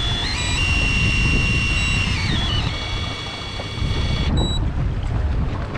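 Steady low rumble of a boat's engine and wind. Over it runs a high whine that steps up in pitch just after the start, holds, steps back down, and stops abruptly about four seconds in.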